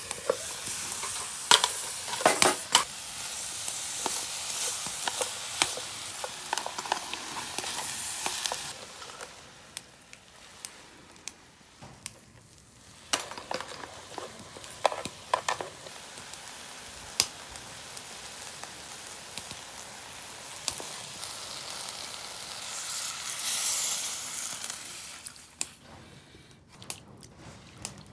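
Meat and vegetables sizzling in an aluminium mess tin, with the clicks of a utensil stirring against the tin now and then. The sizzle is loudest at first, drops away about a third of the way in, and rises again later.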